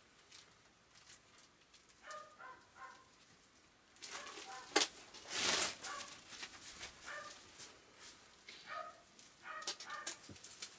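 An animal whimpering in short, high-pitched cries that come in a few small runs. A sharp click and a brief rustling burst come about halfway through.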